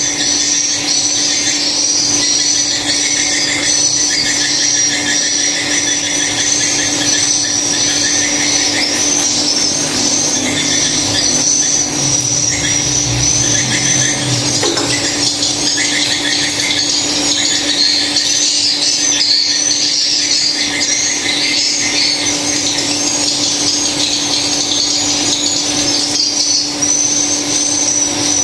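Swiftlets twittering: a dense, continuous mass of rapid high chirps, with a steady low hum underneath.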